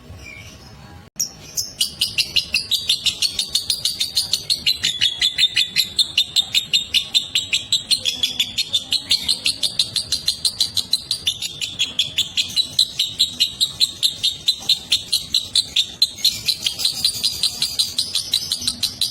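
Lovebird giving its long 'ngekek' chatter: a fast, unbroken run of short, shrill notes, about four to five a second, starting about a second in after a brief lull. This is the long, sustained chatter prized in a lovebird in top singing form.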